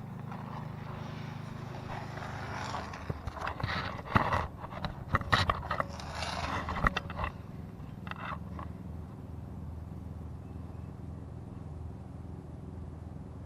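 1991 Ford Crown Victoria's V8 idling steadily through its exhaust, with a spell of scraping and knocking sounds in the middle.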